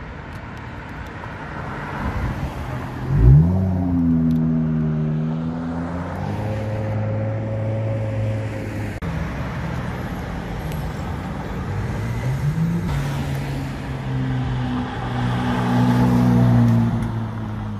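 Sports car engines accelerating hard past on a street. There is a sharp rise in revs about three seconds in, then a steady pull. Near the end the naturally aspirated V8 of a Ferrari 458 Italia pulls past, the loudest part of the stretch.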